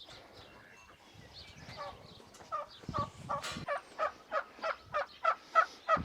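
Poultry calling in a long run of short, evenly spaced notes, about three a second. It starts about two seconds in and grows louder.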